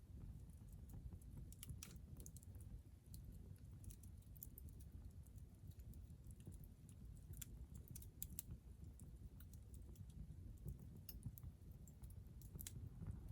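Hardwood campfire burning quietly, with faint scattered crackles and small pops at irregular intervals over a low rumble.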